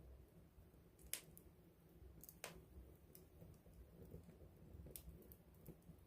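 Wood fire crackling close up: a faint low flame rustle with scattered sharp pops, the loudest just over a second in and others about two and a half and five seconds in.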